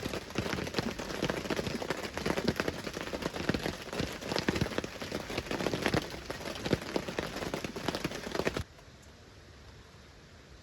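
Rain pattering down in many sharp, dense drops, cutting off suddenly near the end.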